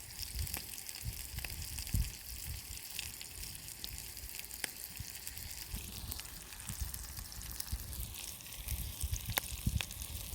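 Beef hamburger patties sizzling in a frying pan, a steady hiss with scattered small crackles and pops.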